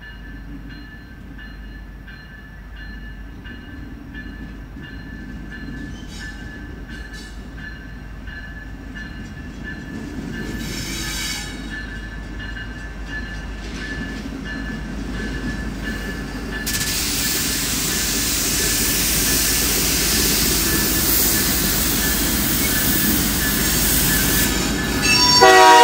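Diesel-hauled freight train drawing closer, its engine rumble and rail noise growing steadily louder, with a burst of hissing wheel-on-rail noise about two-thirds of the way in. A locomotive horn starts sounding right at the end.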